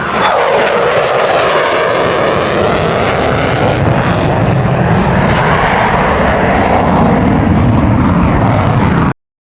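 Airplane flying past at an airshow, its engine loud and steady, the pitch sweeping down sharply just after the start as it passes. The sound cuts off suddenly near the end.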